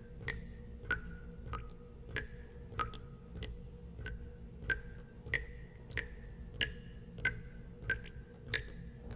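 Water drops falling one at a time into water, a steady drip about every two-thirds of a second. Each drop is a short plink with a brief ringing pitch that shifts a little from drop to drop, over a low steady hum.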